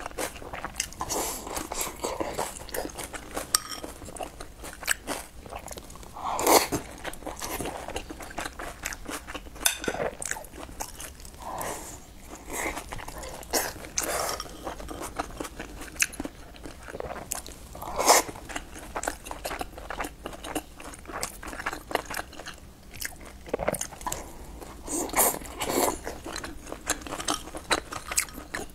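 Close-miked eating: biting into and chewing soft steamed buns dipped in broth, with wet mouth sounds and small clicks of chopsticks against the bowl. Louder bites stand out about six seconds in, around eighteen seconds, and near the end.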